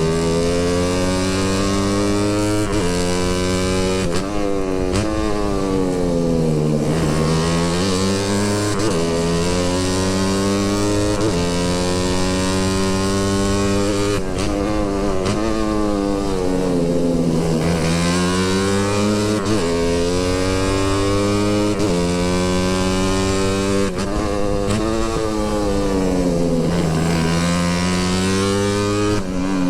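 Motorcycle engine under way. The revs climb and drop in steps as the gears change, fall off low three times, near 7, 17 and 27 seconds in, and climb again each time.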